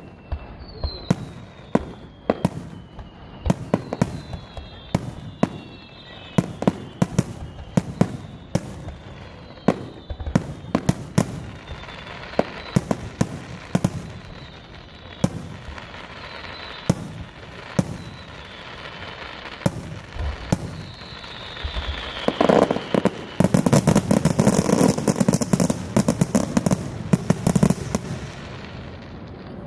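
Fireworks display at its climax: shells bursting in a steady string of sharp booms, with falling whistles in the first half. About 23 seconds in, a dense barrage of rapid crackling bursts takes over as the finale, the loudest part, thinning out near the end.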